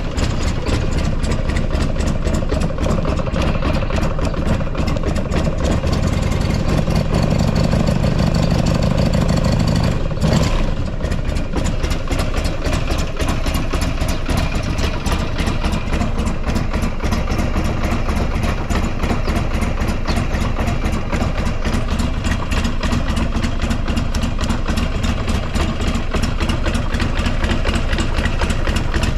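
Buell XB12SCG Lightning's air-cooled 1203 cc V-twin idling with an even, steady beat. A brief sharp sound comes about ten seconds in, after which the idle settles a little quieter. The seller describes the engine as free of abnormal noises.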